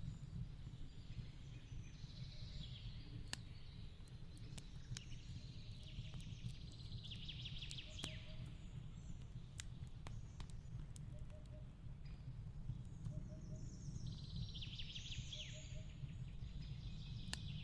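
Fireplace crackling with scattered sharp pops over a low steady rumble, while songbirds sing fast trilling phrases three times.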